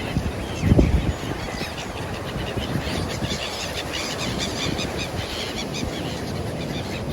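Many birds calling and chattering in quick short notes over a steady low rush, which swells briefly about a second in.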